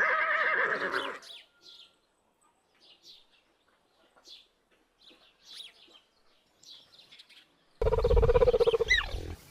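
A horse whinnies, a loud wavering call that ends about a second in. Faint, scattered bird chirps follow. Near the end another loud horse call with a low rumble begins.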